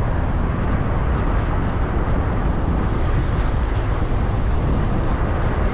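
Steady rumble of a car on the move: road and engine noise, even throughout, strongest at the low end.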